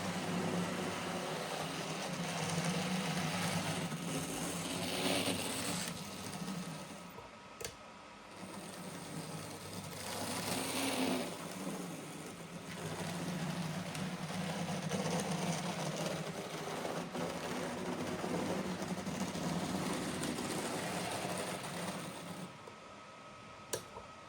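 An N gauge model locomotive's small electric motor and drivetrain whirring steadily as it runs, with a newly fitted motor and freshly lubricated mechanism. It slows away twice along the way, then stops near the end with a click.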